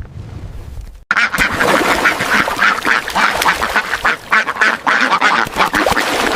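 Flock of ducks quacking loudly, many calls overlapping in a dense chatter that starts abruptly about a second in.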